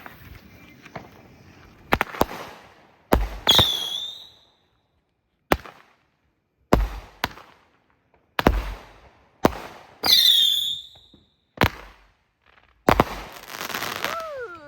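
Backyard consumer fireworks going off: a string of about a dozen sharp bangs at uneven intervals, each trailing off, a few of them carrying a short falling whistle.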